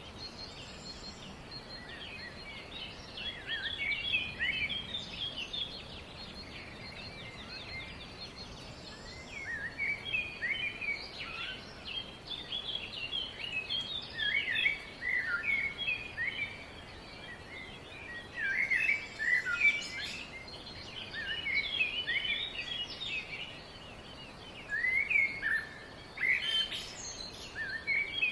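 Several birds chirping and singing in bouts of quick, sweeping notes that come and go every few seconds, over a steady background hiss.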